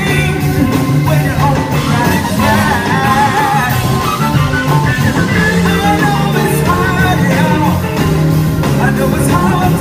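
Live rock band playing, with a steady bass and drums under a wavering, bending lead melody.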